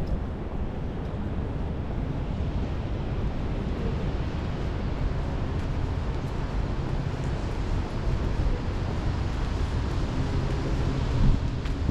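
Steady rain and strong wind, with the wind buffeting the microphone in a constant low rumble.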